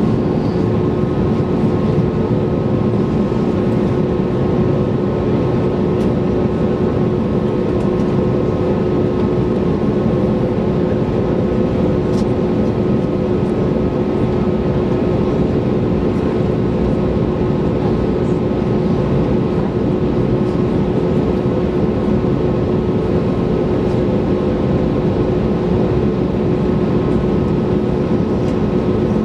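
Cabin noise of an Airbus A321neoLR, heard over the wing: the engines' steady roar under a broad rush, with several steady tones held throughout.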